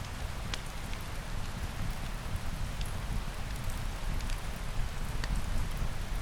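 Steady rain falling, with a low rumble beneath it and a few sharp crackles from a wood fire scattered through.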